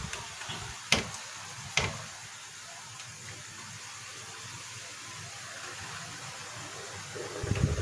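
Two sharp plastic clicks a little under a second apart, typical of wire connectors being pushed home into their sockets on a projector's circuit board, then only faint hiss.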